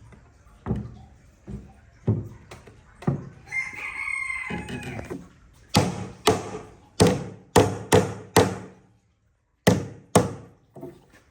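A rooster crows once, about three and a half seconds in. Around and after it comes a run of sharp knocks, the loudest sound, about two a second with a short pause near the end.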